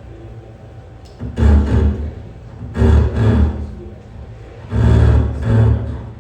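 Live harsh noise music: three loud, distorted bursts of about a second each, over a low rumbling drone that continues between them.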